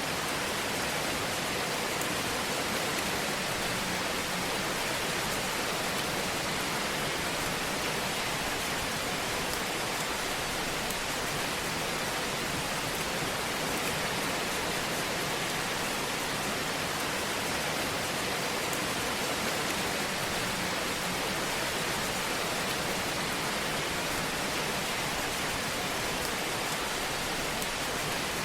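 Fire burning in a fireplace, a steady, even hiss with no distinct crackles standing out.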